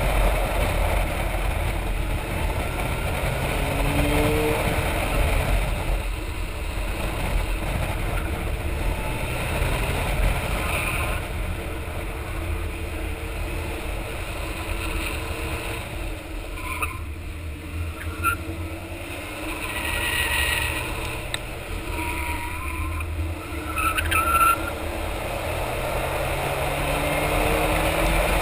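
Car engine rising and falling in pitch as it is driven hard through a timed run, heard from outside the car with heavy wind rumble on the body-mounted microphone. A few short squeals come in the second half.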